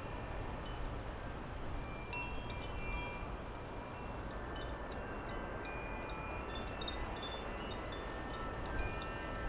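Wind chimes tinkling irregularly, short ringing notes at several different pitches, over a steady low wind rumble.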